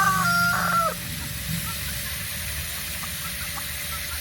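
Rooster crowing, its final long held note ending about a second in. After that there is a steady low rumble and hiss.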